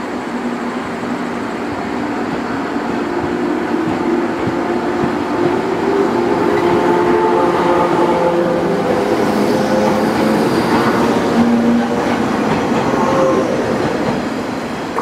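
JR Kyushu 415 series electric train running on the track. The rumble of the running train grows louder over the first half and stays loud, with steady humming tones under it.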